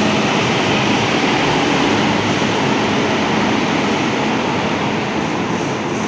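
Euro 4 Scania K230UB bus running: a steady drone of engine and road noise with a faint low hum, easing slightly in loudness toward the end.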